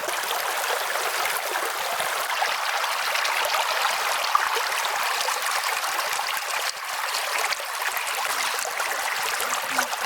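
Stream water running steadily over its bed.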